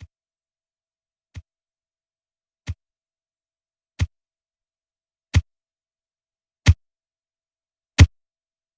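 A series of short synthesized click-thumps, seven in all, evenly spaced about a second and a half apart, each one louder than the last.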